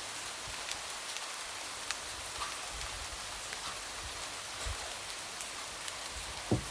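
Light rain pattering steadily, with scattered single drops tapping and one louder tap near the end.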